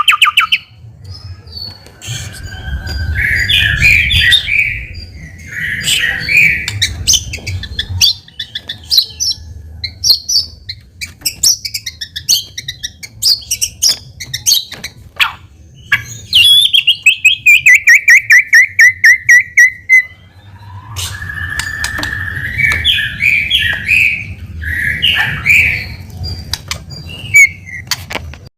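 White-rumped shama (murai batu) singing a varied, loud song of whistled phrases and rapid chattering notes, with a fast falling trill a little past the middle. A low rumble runs beneath the song much of the time.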